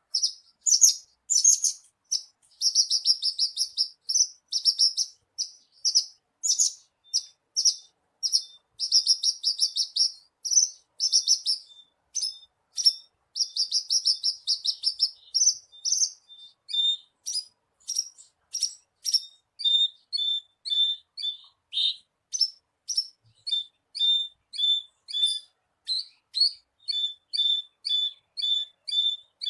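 Male Horsfield's bush lark (branjangan) singing: rapid high trilled phrases, changing about halfway to a steady series of short, separate chirps at roughly two a second.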